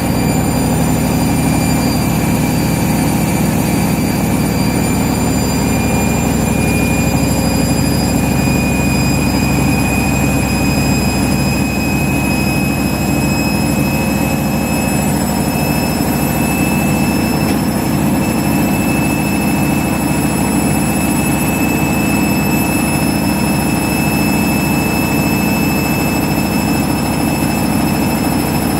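Front-loading washing machine in its spin, a steady heavy drum rumble under a motor whine that climbs slowly in pitch as the drum gathers speed.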